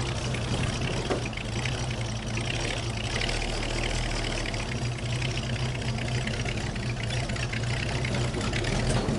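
Heavy engine running steadily with a low hum, under a constant rush of wind noise.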